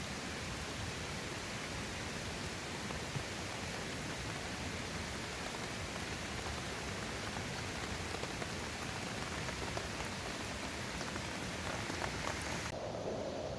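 A steady, even hiss of water. Near the end the sound changes suddenly, losing its higher part.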